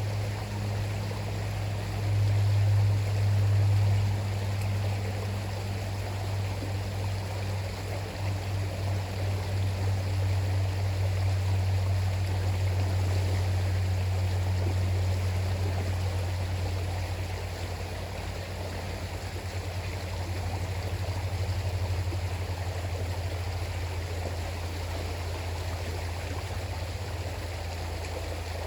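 River water flowing and rushing steadily, under a strong low rumble that swells and fades, loudest about two to four seconds in.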